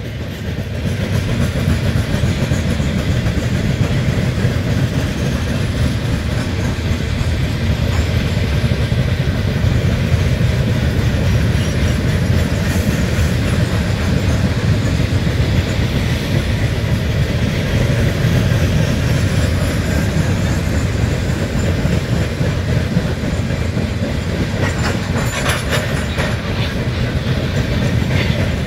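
Freight train of open hopper cars rolling past: a steady rumble of steel wheels on the rails with clickety-clack over the joints, and a brief sharper clatter near the end.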